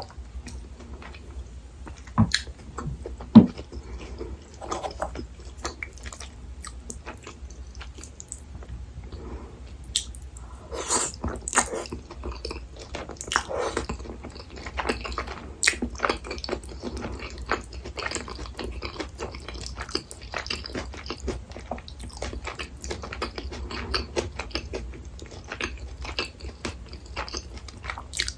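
Close-miked eating sounds: chewing and biting, with wet, crackly mouth noises. There are a couple of sharp knocks in the first few seconds, and the chewing gets busier from about ten seconds in.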